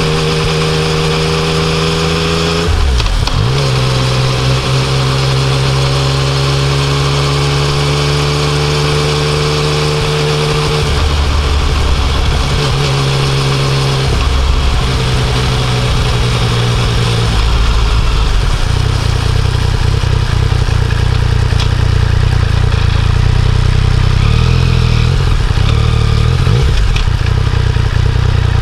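Yamaha Tracer 900's three-cylinder engine pulling on the road, with a steady engine note that rises slowly. The pitch drops sharply about three seconds in and changes again several times later, as the rider shifts gear and works the throttle. Wind rush on the microphone runs underneath.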